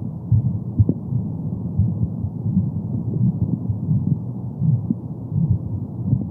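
Womb sound: a muffled, low whooshing with a repeated heartbeat-like pulse.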